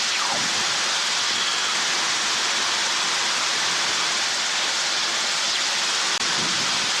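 Steady hiss of the helicopter's radio and intercom audio feed in flight, with no pitch, between radio calls.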